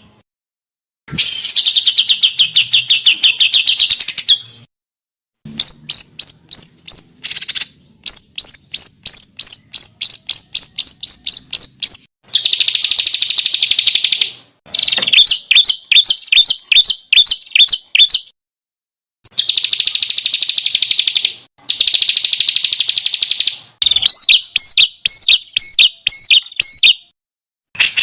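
Songbird song from a masteran training recording: fast, high-pitched trills and rapid runs of sharp repeated chirps, delivered in phrases a few seconds long with short silent gaps between them.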